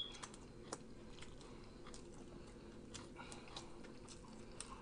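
Faint mouth sounds of a person chewing food, with scattered soft clicks and a smack as fingers are licked at the start.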